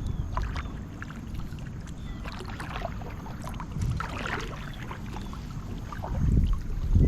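Water splashing and sloshing along a kayak's hull as it moves, over a steady low rumble, with a couple of dull thuds near the end.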